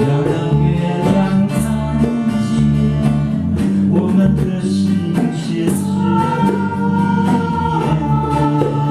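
A small vocal group singing in harmony over acoustic guitar, with a long held note from about six seconds in.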